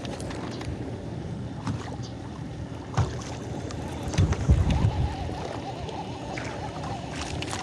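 Water sloshing against a fishing kayak's hull, with a few low knocks and thumps, one about three seconds in and a cluster about four to five seconds in.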